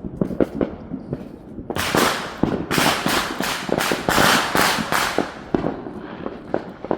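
Neighbourhood fireworks going off in quick succession: scattered sharp pops, then a dense run of loud bangs from about two to five seconds in.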